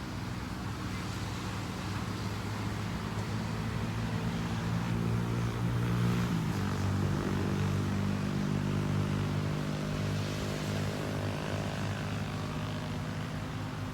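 An engine passing by: a steady drone that grows louder, drops in pitch about six and a half seconds in, then eases off.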